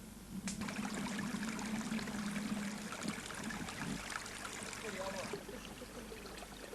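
Rushing water of a mountain waterfall, a steady hiss that starts abruptly about half a second in and cuts off abruptly a little after five seconds.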